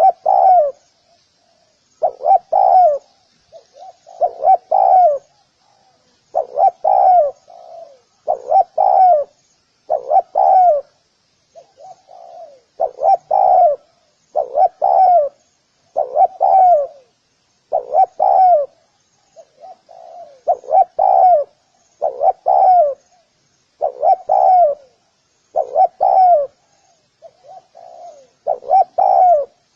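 Spotted dove cooing, a phrase of a few coos repeated about every two seconds, with faint high chirping of other small birds behind it.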